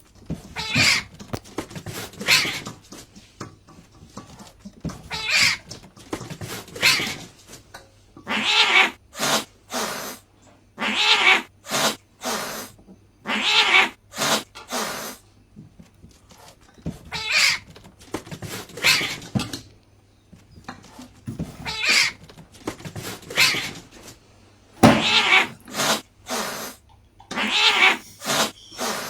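A domestic cat meowing and yowling over and over, one call every second or two.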